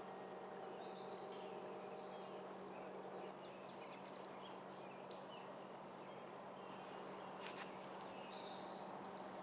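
Faint outdoor ambience: a steady low hum with insects buzzing and a few bird chirps, near the start and again near the end. A short sharp click comes about seven and a half seconds in.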